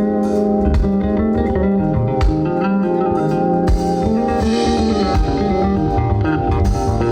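A live band playing an instrumental passage, with guitar lines over bass and a drum kit.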